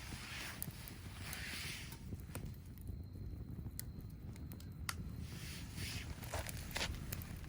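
Wood bonfire crackling: irregular sharp pops and snaps over a low, steady rumble and soft hiss.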